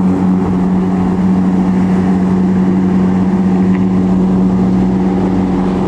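A vehicle engine running at a steady speed, a loud constant hum, with a deeper rumble swelling briefly about four seconds in.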